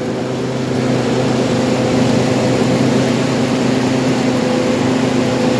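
Rice combine harvester engine running steadily at a constant pitch.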